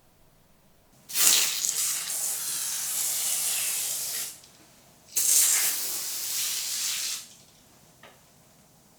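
Water running or spraying in two bursts, about three seconds and then about two seconds long, each starting and stopping abruptly.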